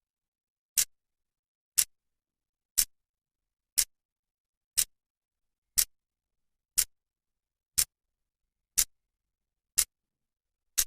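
A clock's second hand ticking once a second: short, sharp, even clicks with silence between them.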